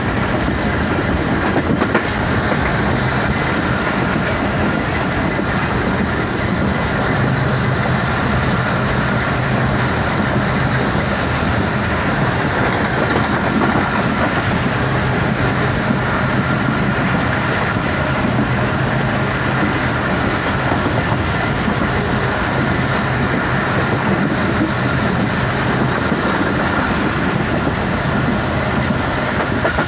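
Passenger train travelling at speed, heard from inside a coach: the wheels and coach running on the track make a steady, unbroken noise.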